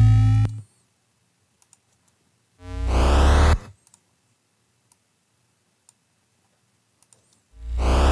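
Synthesized sound-design layers played back in a DAW: a low droning synth tone cuts off about half a second in, a short one-second burst of a similar tone comes around three seconds in, and a dense sweep of many rising tones starts near the end. Faint clicks fall in the silent gaps between.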